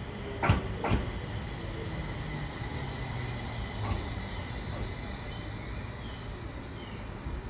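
Train running on rails: a steady rumble of wheels and running gear, with two sharp knocks about half a second apart near the start.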